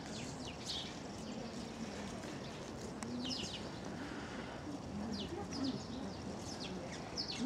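Small birds chirping: short, high, falling chirps every second or so, over a faint murmur of distant voices.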